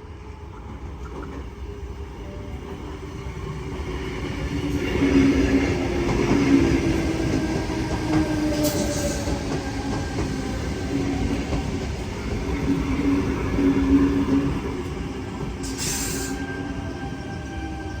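Sydney Trains Tangara electric suburban train moving at the station platform, a steady mechanical hum from its motors and wheels that grows louder about four seconds in and rises and falls after. Two short hissing sounds come through, one about halfway and one near the end.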